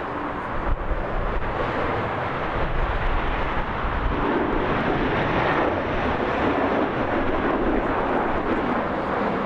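Jet airliner's engines: a steady rushing noise that grows a little louder about two seconds in.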